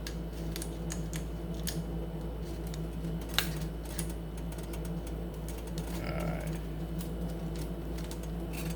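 Food crackling in a pan on the stove: scattered light pops and clicks over a steady low hum, with one sharper click about three and a half seconds in.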